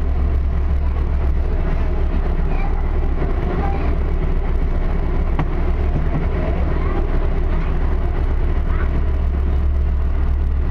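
Steady low rumble of a light-rail train car in motion, heard from inside the cabin.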